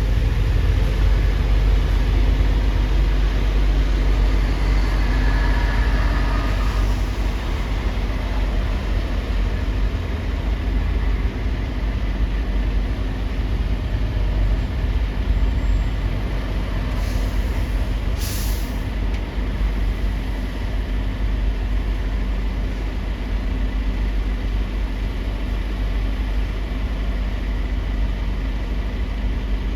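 Heavy lorry engines running with a steady low rumble, and a short air-brake hiss about 18 seconds in.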